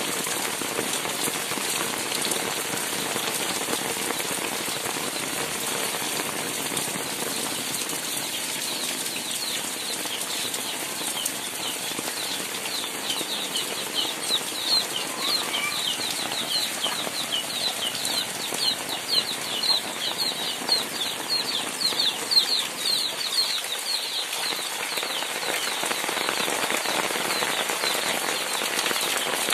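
Heavy rain falling steadily. From about ten seconds in, a bird's short high chirps repeat quickly, two or three a second, dying away near the end.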